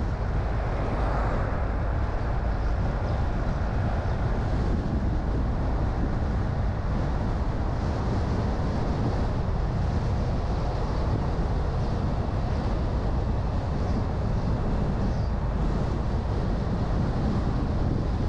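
A car driving at a steady pace: an even low rumble of road, tyre and engine noise with some wind.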